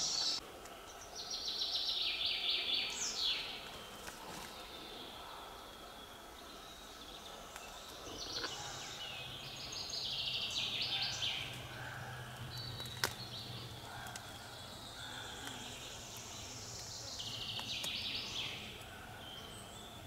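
A songbird singing short phrases of quick high notes, several ending in a falling sweep, repeated every few seconds over quiet forest background. A faint steady low hum runs through the middle.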